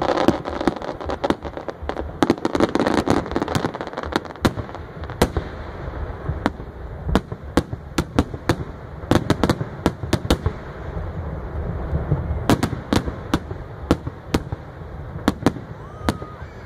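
Aerial fireworks shells bursting in quick succession: many sharp bangs throughout, with a dense crackle in the first few seconds, over a low rumble.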